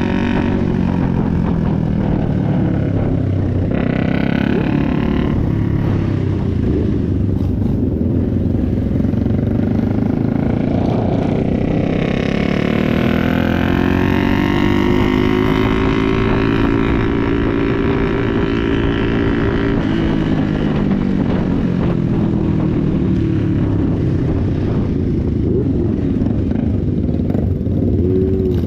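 Motorcycle engine running while riding, its pitch rising and falling with the throttle: it climbs about twelve seconds in and eases off after about twenty, over a steady low rumble.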